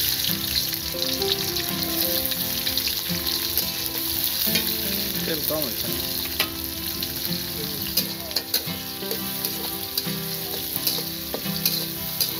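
Chopped onions sizzling as they fry in oil in an iron wok, with a steady hiss, while a metal spatula stirs them, scraping and clicking against the pan now and then.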